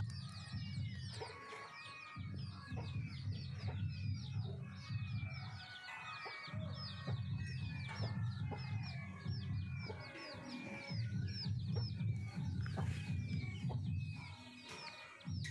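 Many birds chirping in quick, repeated short calls, over a low rumble that comes and goes.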